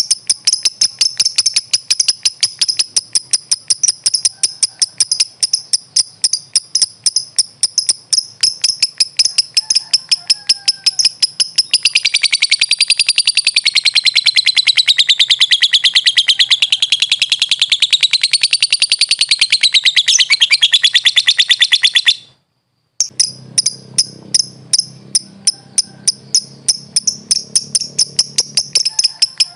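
Lovebird calling: a rapid string of sharp, high chirps, then about twelve seconds in a long, unbroken chattering trill (the 'ngekek' keepers prize) that wavers up and down in pitch for about ten seconds and cuts off abruptly. After a short gap the rapid chirping resumes.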